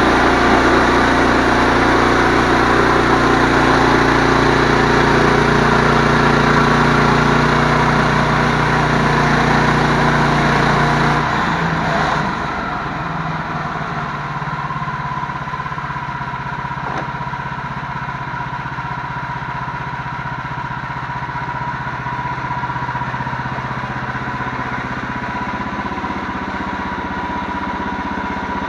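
An engine running steadily; about twelve seconds in it gets quieter and its note changes, then it runs on evenly.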